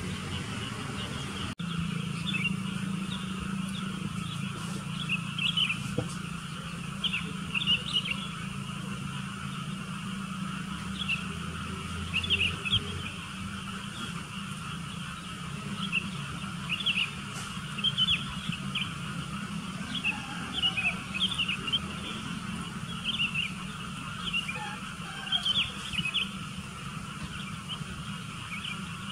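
Sooty-headed bulbuls chirping in short, quick calls repeated throughout, over a steady low hum.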